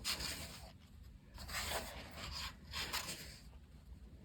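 Paper pages of a coloring book being turned and brushed by hand, three soft rustling sweeps about a second and a half apart.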